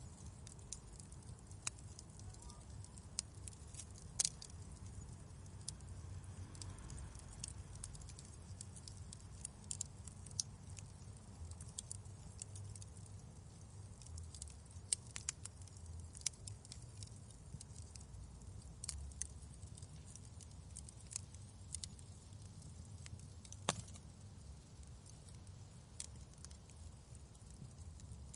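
Wood fire crackling: scattered sharp pops and snaps over a low, steady rumble, with a louder pop about four seconds in and another late on.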